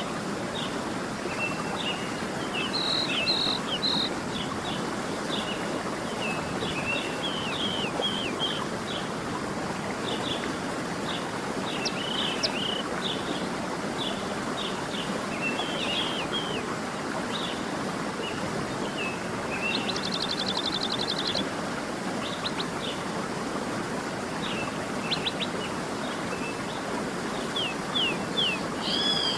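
Songbirds chirping and calling over the steady rush of flowing water, with a quick trill about two-thirds of the way through.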